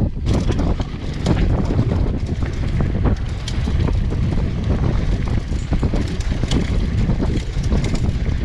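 Wind buffeting a GoPro action camera's microphone on a mountain bike riding down a trail, with a constant low rumble and frequent sharp clicks and rattles from the bike over rough ground.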